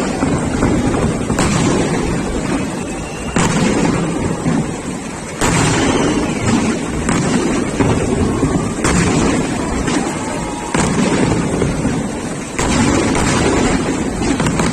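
Fireworks going off: a sharp bang every one to two seconds over a continuous rumble and crackle.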